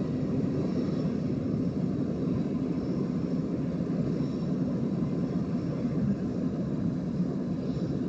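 Diesel locomotive engine running steadily: an even, low drone with no change in pitch.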